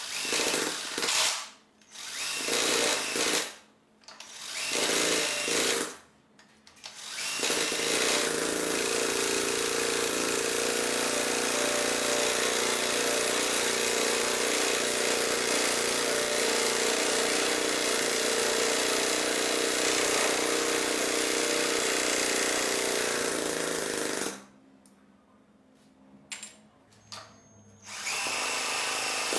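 Small homemade engine converted from a refrigerator compressor, running in several short bursts over the first seven seconds. It then runs steadily for about sixteen seconds and cuts off suddenly, with brief bursts before it starts running again near the end.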